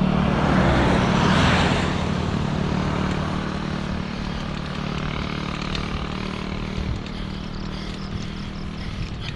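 A motor vehicle's engine passing close and fading away, over a steady rushing noise.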